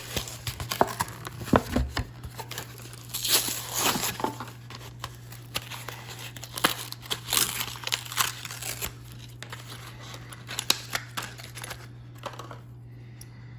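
Hot Wheels blister-card package being opened by hand: cardboard tearing and the plastic blister crinkling, with scattered sharp clicks, settling down near the end. A steady low hum runs underneath.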